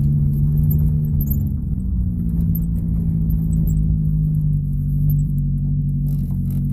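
Ford Focus engine idling at about 1,000 rpm with its muffler and resonator removed: a steady, loud exhaust drone with a low rumble.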